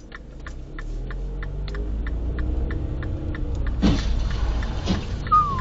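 Car engine running with a low rumble, its pitch slowly rising and falling, under a steady series of short, evenly spaced ticks. A single knock comes about four seconds in, and a falling whistle-like tone starts near the end.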